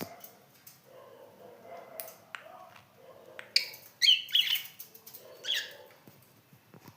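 Pet budgerigar chattering softly, then a run of short, sharp chirps about halfway through, loudest a little after four seconds in.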